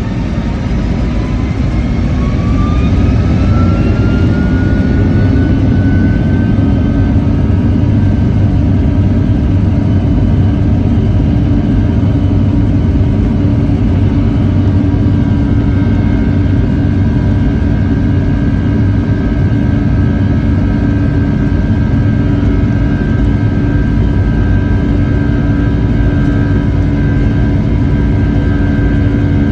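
Rolls-Royce RB211 turbofan engines of a Boeing 757-300 spooling up for takeoff, heard inside the cabin. A whine rises in pitch over the first six or seven seconds as the sound grows louder, then the engines run loud and steady at takeoff thrust with a steady whine over a deep rumble.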